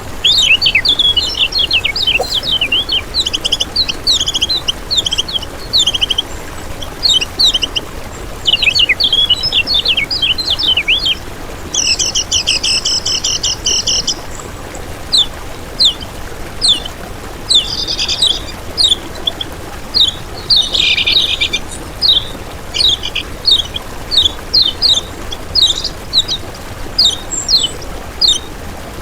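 Kecial kuning, a yellow white-eye, singing: fast runs of high chirps and sharp downslurred notes, broken twice by a short buzzy trill.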